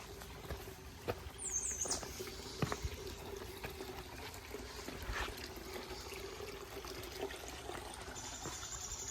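River water trickling and flowing over a small waterfall and rapids, with scattered footsteps on the trail. A brief run of high chirps comes about a second and a half in.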